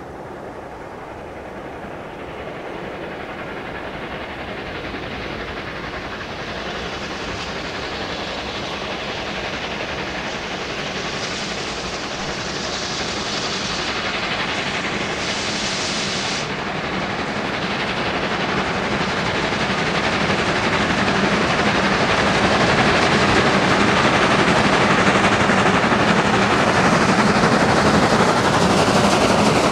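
A train running on rails, a steady rushing noise that grows gradually louder throughout.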